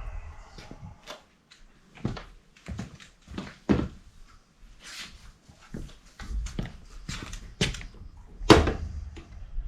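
Irregular knocks, clicks and rattles of tools and metal parts being handled, with a louder knock near the end.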